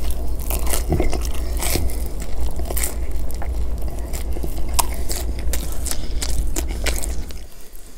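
Close-miked biting and chewing of Pizza Hut pizza crust: many irregular clicks and crunches of the crust being bitten and chewed, over a steady low rumble that drops away near the end.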